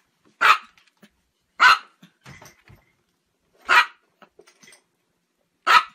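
A small Chihuahua barking four times: short, sharp, high barks, one to two seconds apart.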